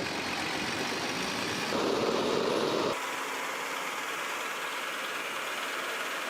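A heavy vehicle's engine running steadily. It grows a little louder for about a second, then the sound changes abruptly about three seconds in to a thinner, quieter running sound.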